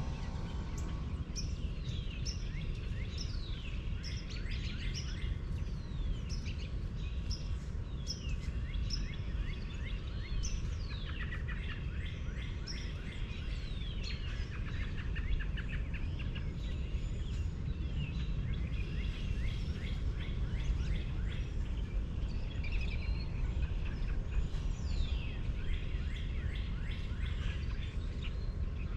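Many birds chirping, a dense chorus of short falling calls, over a steady low rumble.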